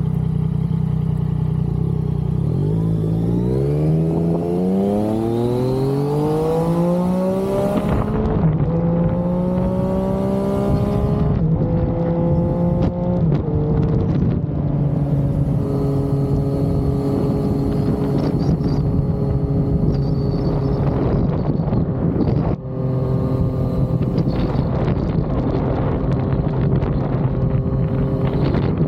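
Yamaha XSR900's inline-three engine under way: it pulls up through the revs, its pitch climbing for several seconds, then drops back about eleven seconds in, as at a gear change, and settles to a steady cruise with a brief dip in the throttle later on.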